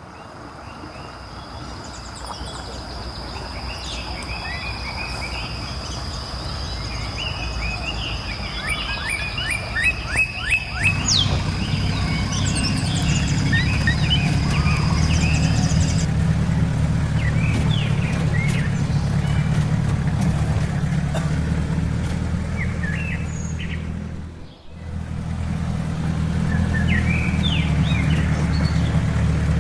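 Forest birds chirping and calling over a steady low rumble that sets in about a third of the way through. A thin, steady high whine runs through the first half and then stops.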